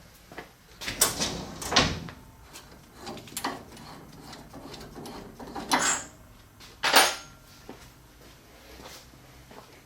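Several separate knocks and scrapes of metal parts being handled while a lathe's manual collet closer is taken apart and its cover slid off. The loudest clunks come about a second in, just before two seconds, and near seven seconds.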